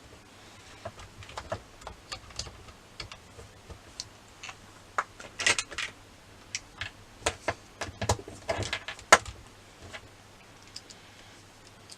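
Scattered light clicks and taps of a small wheel spanner and plastic wheel parts being handled as a wheel is fitted onto a radio-controlled car, with louder clatters about five and a half and nine seconds in.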